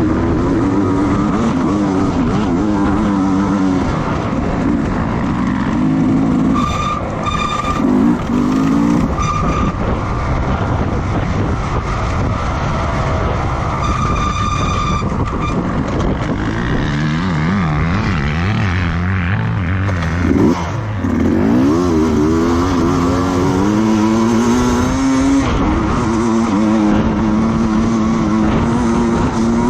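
Racing motorcycle engines at high revs, their pitch rising and falling as they accelerate and shift, with more than one engine heard at once.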